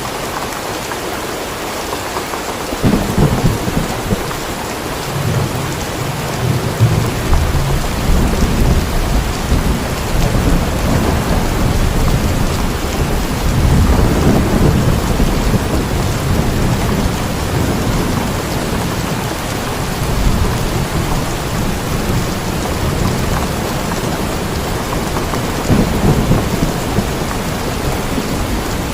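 Steady heavy rain with rolling thunder: a low rumble starts about three seconds in and swells and fades in several long waves, with its loudest peaks near the middle and near the end.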